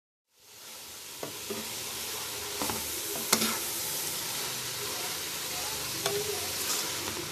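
Grated carrots sizzling in a pot as a block of desi ghee melts into them. A spatula stirs and knocks against the pot a few times, loudest a little over three seconds in.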